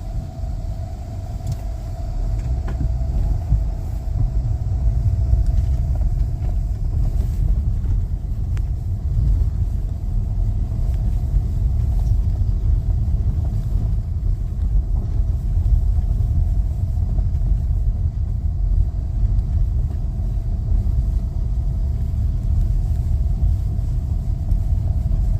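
Vehicle road noise heard from inside the cab while driving: a steady low rumble with a faint steady mid-pitched hum running through it.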